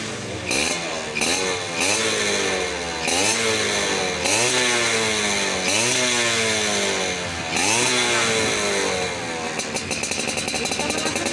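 Suzuki Tornado GX two-stroke motorcycle engine with an aftermarket Creampie exhaust, revved in about seven quick throttle blips, each pitch sweep rising and falling back. Near the end it settles into a rapid, even idle.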